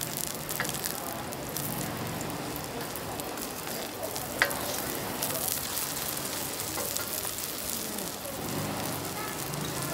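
An egg omelet frying in hot oil in a black wok: a steady crackling sizzle, with the egg stirred and pushed around by a plastic fork. One sharp tap about four and a half seconds in.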